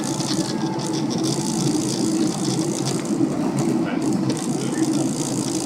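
Cabin noise inside a Boeing 767-300ER climbing out after takeoff: the steady drone of the jet engines and airflow, with light rattling from the cabin fittings.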